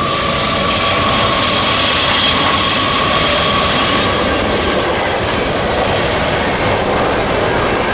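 A train rolling past: a steady loud rush and rumble of wheels on rail, with a high held tone that sinks slowly in pitch.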